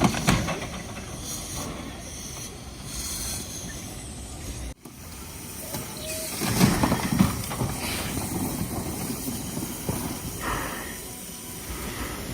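Train noise with a steady hiss, breaking off abruptly about five seconds in, then a louder stretch of rumbling a second or so later.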